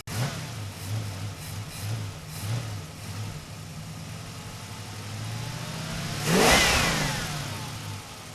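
Steady low drone of a car travelling on the road. About six seconds in, another vehicle swells up and passes, its sound dropping in pitch as it goes by.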